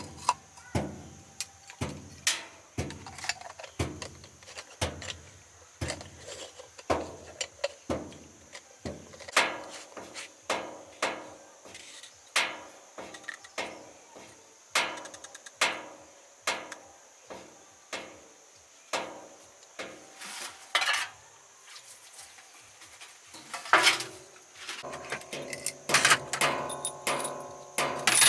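Hammer blows on metal in a steady rhythm, about two a second, each with a short ring. They pause briefly near the end, and then come faster over a steady hum.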